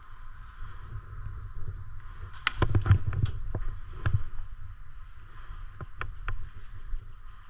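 A cluster of sharp clicks and knocks from about two to four seconds in, then a few more around six seconds, over a steady low rumble.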